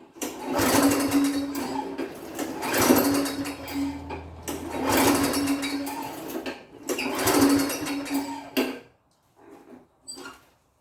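Push lawn mower's small engine cranked over by its recoil pull-starter about four times, each pull a short whirring burst roughly two seconds apart. It never catches, the no-start that the owner puts down to a clogged carburetor jet after the mower sat unused. After the last pull there are a few faint clicks.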